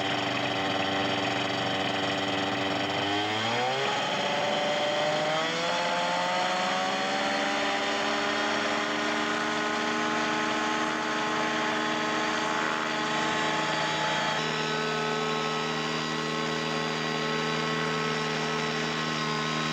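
An engine speeding up in steps over the first seven seconds or so, then running at a steady pitch.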